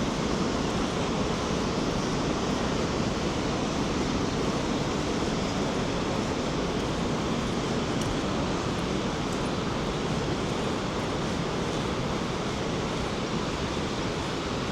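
Rhine Falls' rushing water, a steady, unbroken roar.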